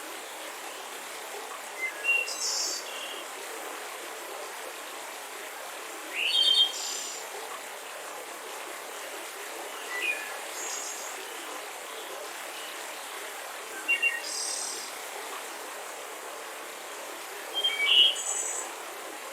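Forest ambience: songbirds giving short chirping calls about every four seconds over a steady background hiss.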